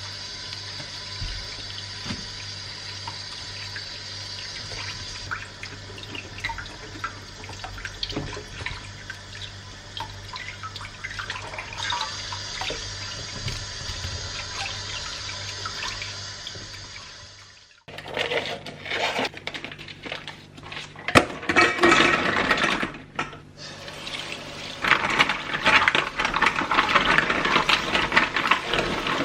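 Water running from a tap into a sink. At first it is a steady hiss; after a sudden break about 18 seconds in, it comes back louder and uneven, with splashing and knocks.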